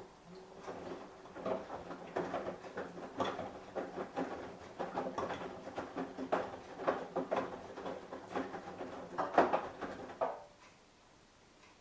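Samsung Eco Bubble washing machine drum turning during a wash: a steady motor hum with the laundry tumbling and knocking irregularly inside the drum. It stops about ten and a half seconds in, as the drum pauses between turns.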